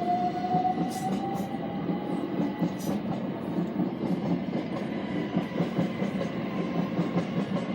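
Class 379 Electrostar electric multiple unit passing: a continuous rumble of wheels on rail, with a faint rising whine in the first couple of seconds and a few sharp clicks.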